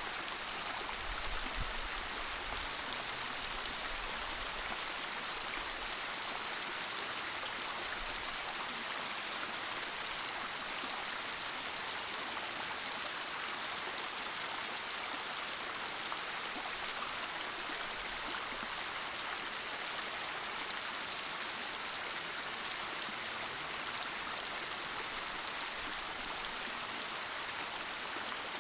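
Waterfall: a steady rush of falling water, an even hiss that holds unchanged throughout, with a brief low rumble about a second and a half in.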